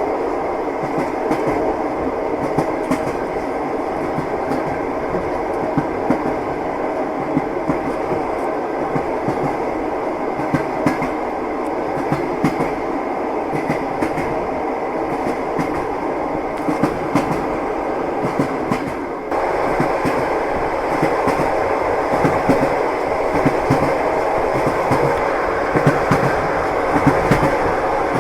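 Train wheels clattering over the rail joints, with the steady rumble of a moving railway carriage heard from inside. About two-thirds of the way through, the sound abruptly gets louder and brighter.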